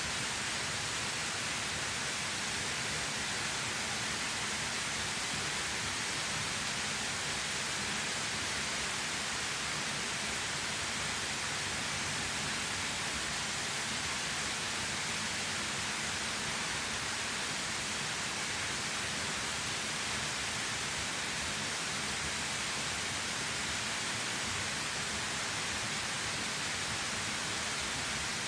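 Waterfall falling steadily: an even, unbroken rush of water, brightest in the upper range, with no change in level.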